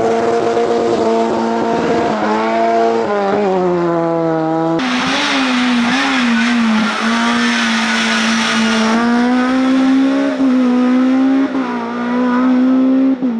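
Race car engine running at high revs, its pitch stepping up and then falling away a few seconds in, then changing abruptly and holding high and steady for the rest.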